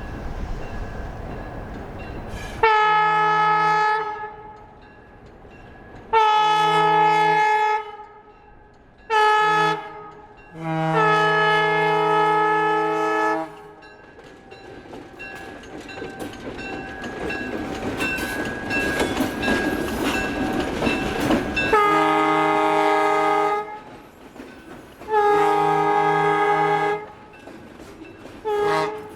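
Escanaba & Lake Superior diesel locomotive's air horn sounding the grade-crossing signal: two long blasts, a short one and a long one. Then the train's rumble and clatter swell as it goes by, and the horn starts the same pattern again with two long blasts and a short one near the end.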